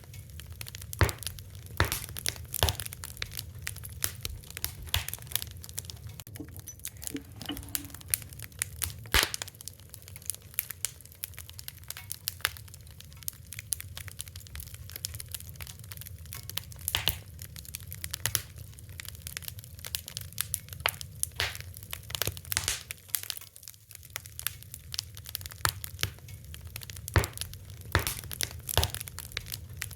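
Wood fire crackling: irregular sharp pops and snaps over a low, steady rumble of the burning.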